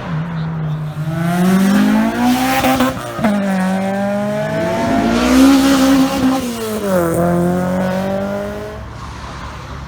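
A modified car's engine revving hard as it pulls away, its pitch climbing, dropping sharply about three seconds in, then climbing again. Near seven seconds it eases off and holds steady, then fades near the end.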